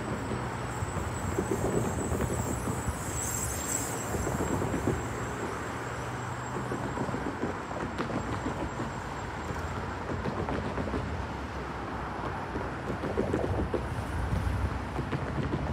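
Distant NJ Transit train pulling away down the line, pushed by an ALP-46A electric locomotive at its rear, its sound fading under steady outdoor wind and traffic noise. A faint high whine from the train dies away about two-thirds of the way through, and a low hum ends about halfway.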